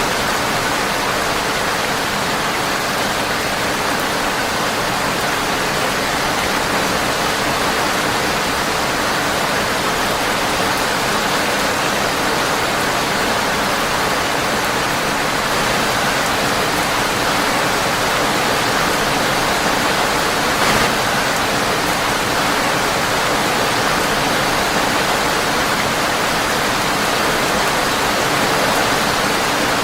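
Steady rain on a windowpane, a dense, even hiss, with a single short click about two-thirds of the way through.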